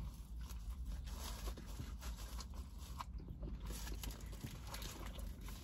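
Close-up mouth sounds of biting into and chewing a Culver's Curd Burger: irregular small crunches and wet clicks, over a low steady hum.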